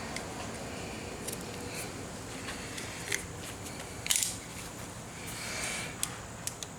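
A blade working at a rubber handlebar grip that is glued on: scattered small clicks and short scrapes, with a louder scrape about four seconds in and a longer, softer one near the end.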